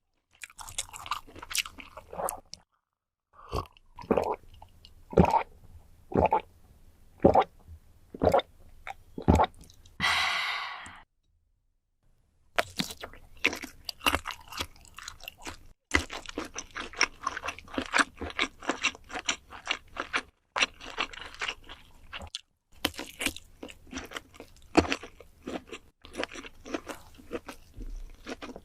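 Close-miked eating: sharp crunchy bites about a second apart, then steady crackly chewing, with a brief hiss of about a second partway through.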